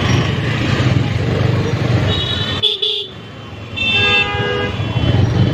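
Vehicle horns honking in heavy road traffic, with two horn blasts about two and four seconds in, over a steady low rumble of engines and wind. The sound briefly drops out about three seconds in.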